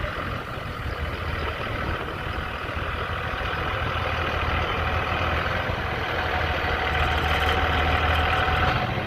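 Vehicle engine running steadily with a low hum, growing somewhat louder partway through.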